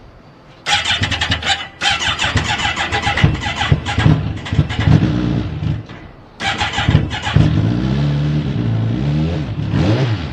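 Kawasaki ZX-14R inline-four started on the electric starter. It catches and runs for about five seconds, cuts out, is started again, and runs with throttle blips that swing its pitch up and down.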